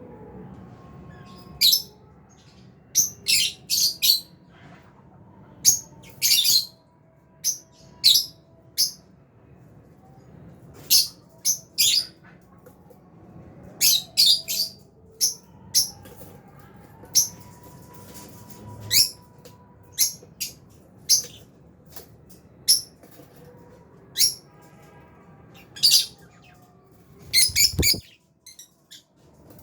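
A flock of lovebirds, Fisher's and albino, chirping in short, sharp, high-pitched calls that come irregularly, singly and in quick clusters. A brief low thump comes among a burst of chirps near the end.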